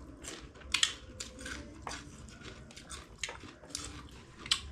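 Close-up eating sounds: chewing and wet mouth smacks while eating buckwheat dhido, heard as a run of short, irregular clicks and smacks.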